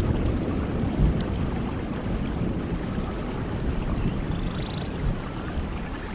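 Steady rain falling, with a low rumble of thunder dying away in the first second.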